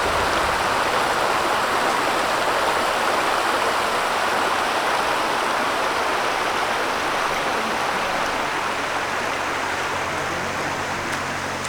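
Water rushing over a waterfall: a steady, even rush that eases slightly toward the end.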